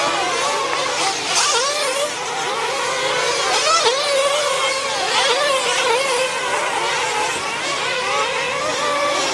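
Several gas-powered RC race trucks' small engines whining together, the pitch rising and falling again and again as they rev up and back off around the track.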